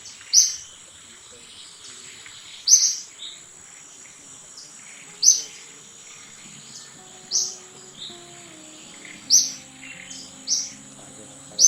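A bird repeats a short, loud, high chirp about every two seconds over a steady high insect drone. Soft music comes in about seven seconds in.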